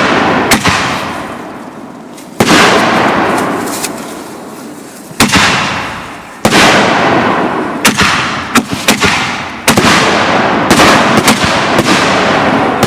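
Consumer aerial fireworks bursting one after another: about a dozen loud booms at uneven intervals, each fading away over a second or two, coming closer together in the second half.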